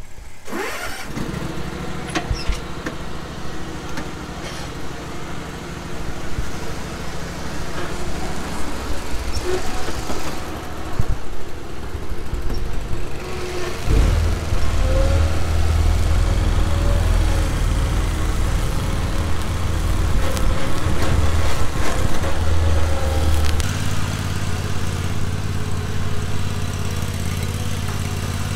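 Lawn mower engine running steadily. About halfway through its note turns heavier and louder, then eases a little near the end.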